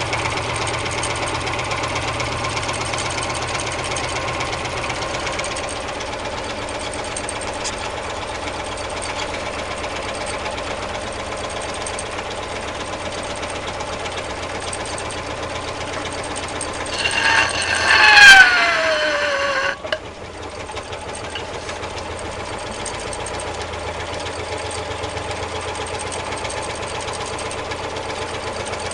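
Home-made four-cylinder double-acting alpha Stirling engine running steadily with a rapid mechanical clatter. About two-thirds of the way through, a louder sound comes in whose pitch falls over about two seconds, then cuts off suddenly.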